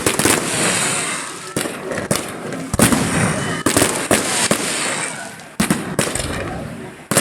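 A fireworks display: aerial shells burst with about nine sharp bangs in quick, irregular succession, each followed by crackling and hissing as it fades.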